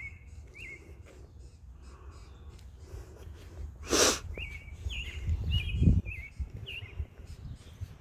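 Small songbirds chirping, the same short chirp repeated again and again, over a low rumble. About halfway through comes a brief, loud burst of breathy noise, followed by a low thump a couple of seconds later.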